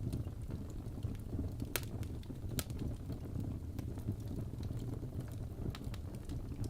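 Crackling wood fire: scattered sharp pops and snaps over a steady low rumble, with two louder pops a little under two seconds in and again about a second later.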